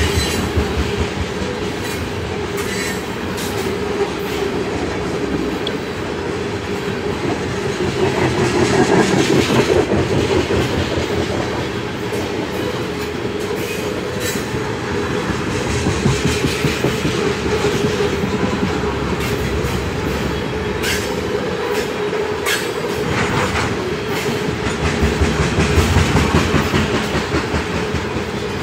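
BNSF freight train of tank cars rolling past close by, its wheels clattering over the rail joints in a steady rumble that swells as each set of wheels passes, with a few short clanks.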